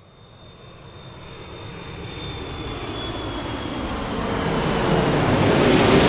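Airliner engine noise swelling steadily from silence into a loud, even rush. A thin high whine sits on top and fades out, and near the end a lower tone drops slightly in pitch.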